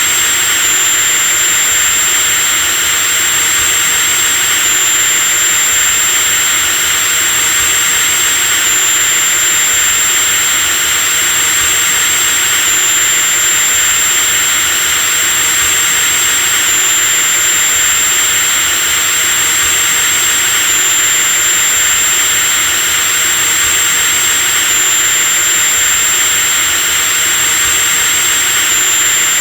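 Electric drill motor running steadily at full speed: a continuous high-pitched whine over a hiss, with no pauses or changes in speed.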